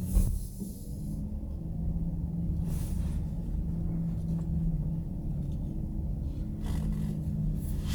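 Low, steady rumble of a car on the road, with a sharp knock just after the start and a few brief noise swells.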